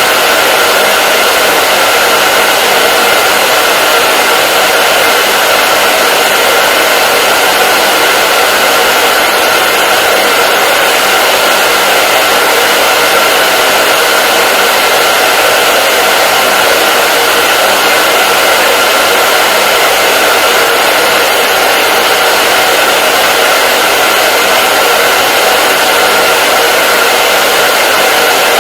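Hair dryer running continuously at a constant setting: a steady rush of blown air with a steady motor whine in it, without change.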